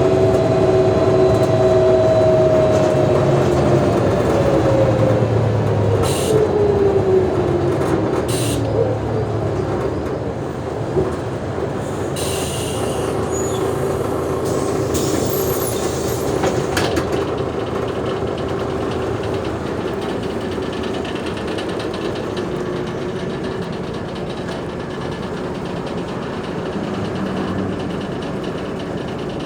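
Mercedes-Benz O345G articulated bus running, its drivetrain whine falling in pitch over the first several seconds as it slows. It then runs on more steadily and a little quieter, with a few short hisses.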